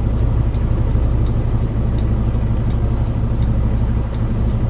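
Semi-truck diesel engine running steadily with a low, even hum.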